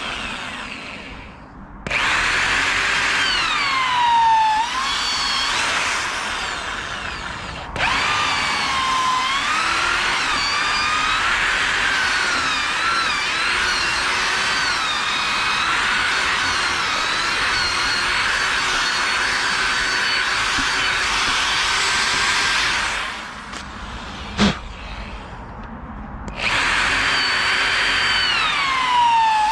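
Electric power drill boring into a log being hollowed out for a beehive, running in long stretches. Its motor whine dips in pitch as it bites into the wood and recovers as it frees up. A short pause with a single sharp knock comes about two-thirds of the way through.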